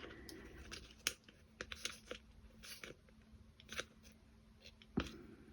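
Faint scattered clicks and light taps of clock kit parts being handled and fitted together, with one sharper knock about five seconds in.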